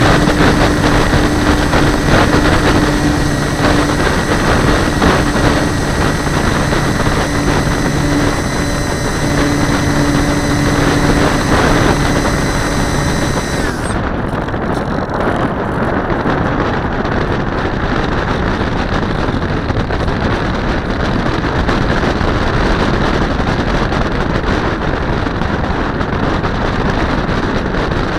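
Wind rushing over the microphone of a camera mounted on a glider's wing in flight: a loud, steady rush. For the first half a steady hum and high whine run through it; about halfway in they cut off suddenly and the rush turns duller.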